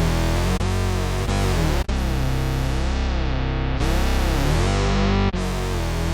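Electric bass played through a Dunlop MXR MB301 Bass Synth pedal: held low synth-bass notes, changing pitch several times, with a filter sweeping up and down to give a wobbling tone.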